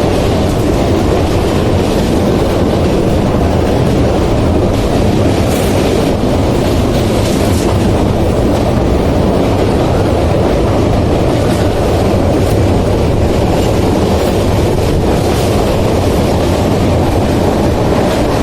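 An Indian Railways train running, with a loud, steady noise of wheels on the track and a few faint clicks.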